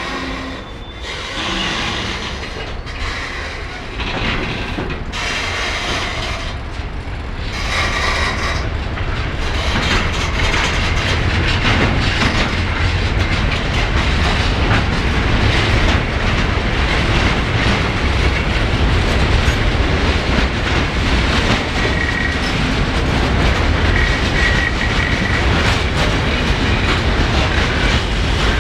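Freight train passing through on the rails, its wagon wheels clicking over the rail joints. It grows louder over the first ten seconds or so and then stays loud and steady, with a faint high squeal from the wheels near the end.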